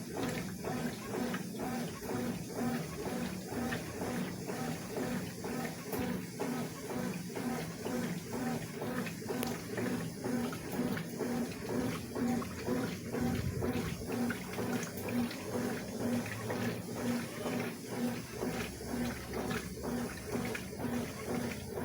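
Consul CWS 12 washing machine in its wash cycle, churning a load of clothes through the water with an even rhythmic swish of about two strokes a second.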